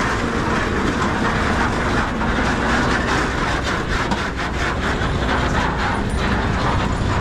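Army trucks of a convoy driving past close by: a steady engine rumble with a run of rattling clatter in the middle.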